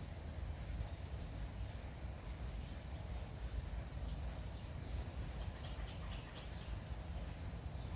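Outdoor morning ambience of light drizzle with birds calling, including doves cooing, over a steady low rumble.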